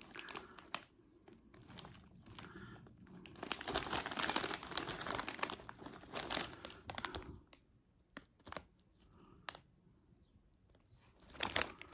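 Snack-size Doritos chip bags crinkling as they are handled, in irregular spells, the longest and loudest a few seconds in, with a couple of sharp clicks later and more crinkling near the end.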